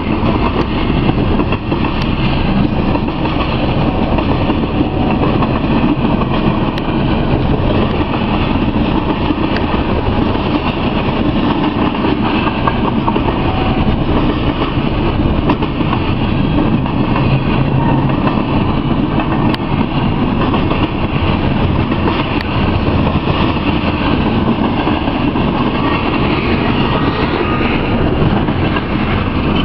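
Freight train of tank cars rolling past: a steady, loud noise of steel wheels running over the rails.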